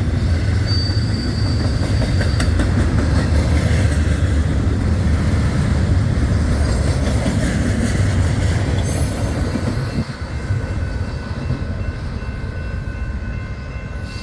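Freight train cars rolling past with a loud, steady low rumble and wheel clatter on the rails, with a brief high wheel squeal about a second in. The rumble drops off about ten seconds in, leaving fainter steady thin squealing tones.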